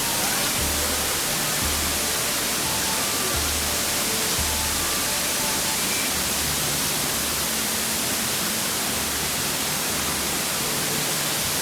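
Loud, steady hiss of heavily falling water under background music with a slow, regular bass beat.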